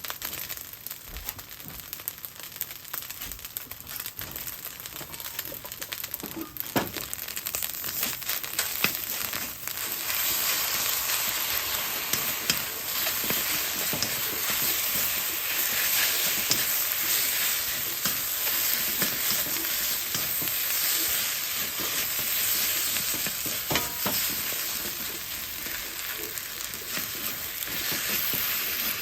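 Food sizzling and crackling in a frying pan as it is stir-fried for fried rice. The sizzle grows louder about ten seconds in. There are a couple of sharp knocks, one about a quarter of the way in and one near the end.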